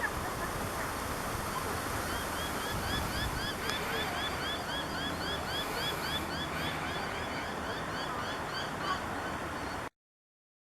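A bird calling a fast series of short, repeated chirps, about three or four a second, for several seconds over a steady rushing noise. The sound cuts off abruptly near the end.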